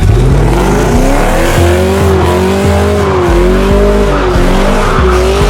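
Car engine revving up sharply, then held at high rpm with its pitch wavering up and down, while the tyres squeal as in a burnout or drift.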